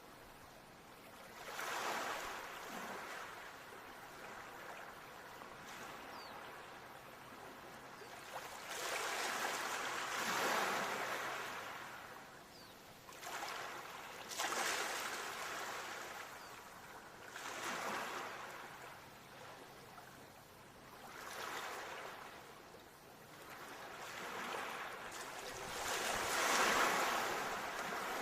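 Ocean waves breaking on a shore, each surge of surf swelling to a rush and washing out again, one every few seconds.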